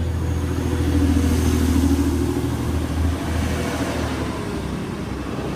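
Class 185 diesel multiple unit pulling away from the platform, its diesel engines running with a steady low drone that swells a second or two in and then eases off.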